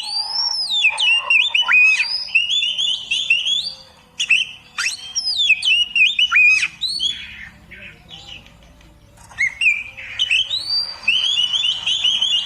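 Oriental magpie-robin (kacer) singing a rich, varied song of whistled phrases with quick upward and downward sweeps, pausing for about two seconds just past the middle before starting again.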